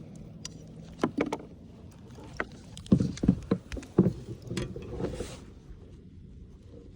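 Scattered knocks and clunks of handling in a fishing kayak: thumps against the hull and gear clattering, most of them bunched together between about three and four seconds in.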